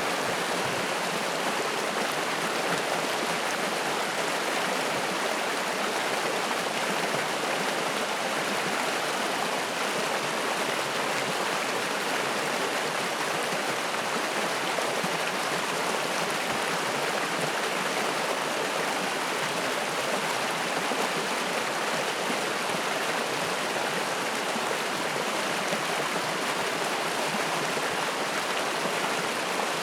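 A mountain stream rushing and splashing over rocks in a steady, even wash of water noise.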